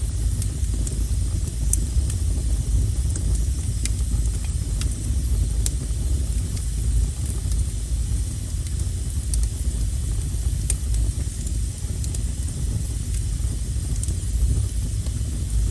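Wood fire burning with a steady low rumble, broken by irregular sharp crackles and pops.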